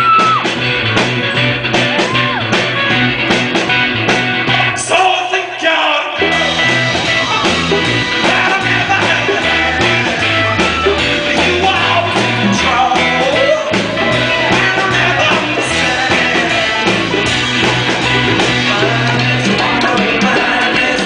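Live rock band playing a song with a singer, heard from the audience. The bass and drums drop out for a moment and the full band crashes back in about six seconds in.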